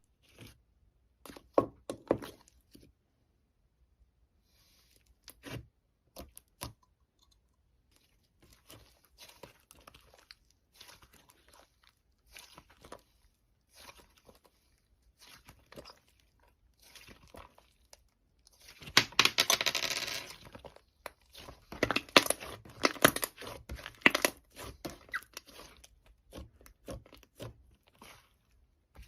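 Slime being worked by hand, crackling and crunching in short, irregular clicks. A denser, louder run of crunching comes about 19 seconds in.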